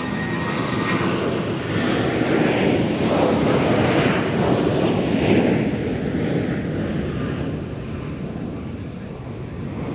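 Aircraft engines of a plane passing close by: the sound swells to a peak about four to five seconds in, then fades away.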